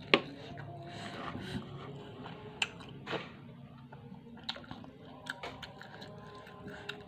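A person chewing a snack close to the microphone with the mouth closed, with scattered sharp crunches and smacks; the loudest comes just at the start.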